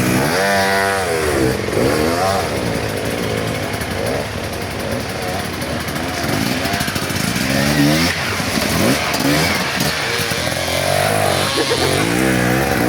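Enduro motorcycle engine revving hard, its pitch rising and falling again and again as the throttle is worked.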